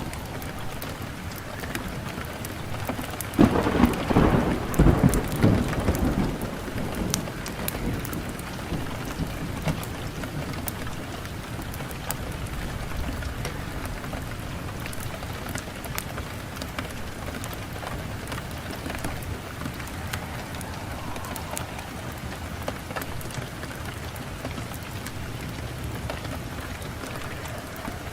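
Wood fire crackling in a fireplace: steady hiss dotted with many small pops. About three seconds in, a loud low rumble starts suddenly and fades over a few seconds.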